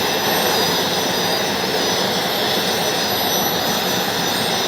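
Aircraft turbine engine running steadily: a loud, even roar with a thin high whine over it.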